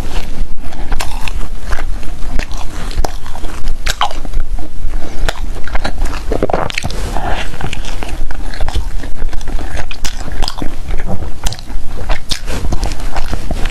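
A person eating into a close microphone, biting and chewing food with many small clicky, crunchy mouth sounds.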